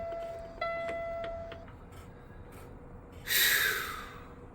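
Semi tractor's in-cab warning chime beeping with the key on, clean-pitched tones about once a second, stopping about a second and a half in. About three seconds in comes a short burst of hiss that fades out.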